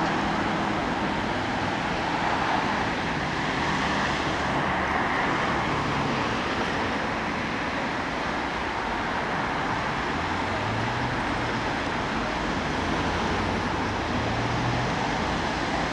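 Steady rushing noise of passing vehicles, even in level throughout, with a low hum coming in about two-thirds of the way through. No horn sounds.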